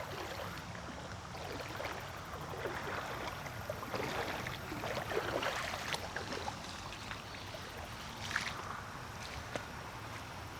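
Someone wading through a shallow creek, the water sloshing and splashing irregularly around the legs with each step, loudest a few seconds in, with one sharp tick near the end.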